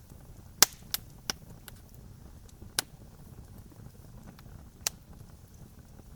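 Campfire crackling: a handful of sharp pops and snaps of burning wood, the loudest about half a second in and others near one, three and five seconds, over a low steady rumble of the fire.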